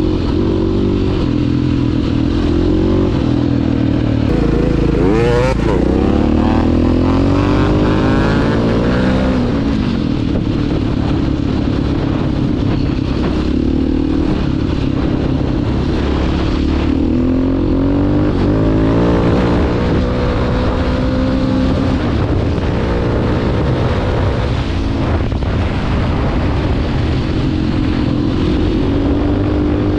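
2009 KTM 530 EXC's single-cylinder four-stroke engine under way on a ride, its revs climbing and dropping repeatedly as the throttle is worked.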